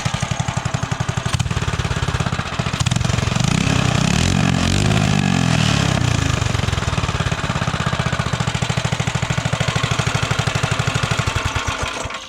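Minibike's 212 Ghost single-cylinder four-stroke engine running with an even, rapid firing beat, getting busier and louder for a couple of seconds in the middle and then settling. It runs well, with no bogging, and cuts off shortly before the end.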